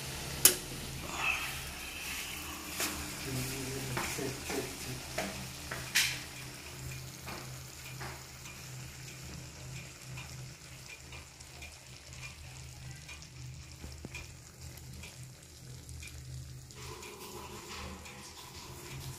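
Shrimp and corn sizzling gently in butter-garlic sauce in a wok over a gas flame. A low steady hum runs underneath, and a few sharp clicks come in the first six seconds.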